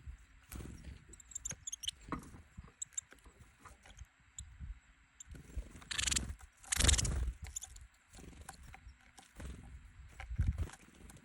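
Small songbirds at a feeding board pecking and scratching at seeds and nuts, a patter of light taps and scrapes, with a loud flurry of wing flaps about six and seven seconds in. A few faint high chirps near the start.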